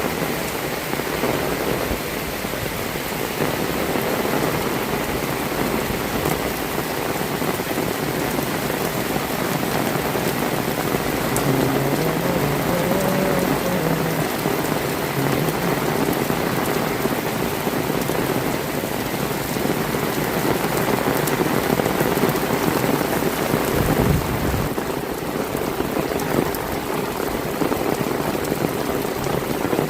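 Heavy rain falling steadily on the ground and surfaces. About three-quarters of the way through there is a brief low thump.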